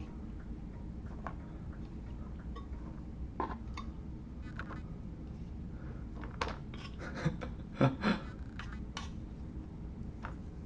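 Scattered light clicks, taps and scrapes of utensils and food packaging being handled, with a pair of louder knocks about eight seconds in.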